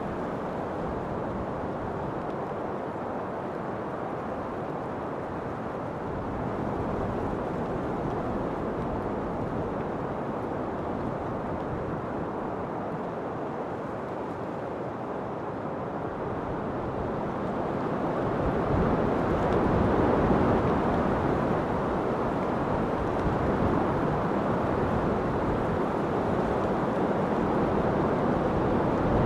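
Steady low rushing of wind, swelling louder about two-thirds of the way through.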